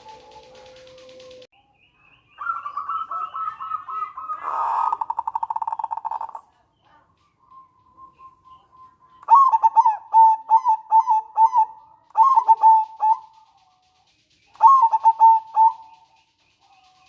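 Zebra dove (perkutut) calling: first a quick run of notes that breaks into a fast rattling trill, then after a pause several bursts of short, staccato coos, the last burst near the end.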